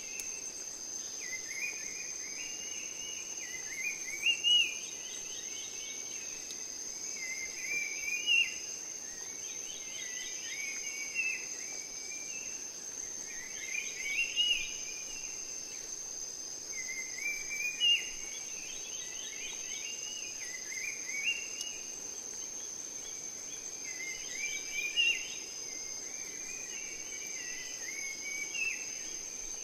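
Rainforest ambience: a steady high-pitched insect drone, with a bird repeating a short rising song phrase about every three to four seconds.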